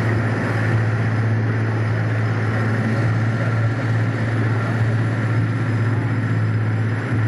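An engine running with a steady low drone, unchanged throughout.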